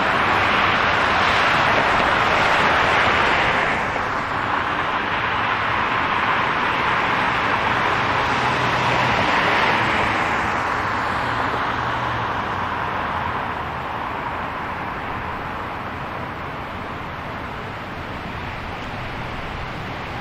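City street traffic: the tyre and road noise of passing cars, swelling as vehicles go by in the first few seconds and again about ten seconds in, then easing off toward the end.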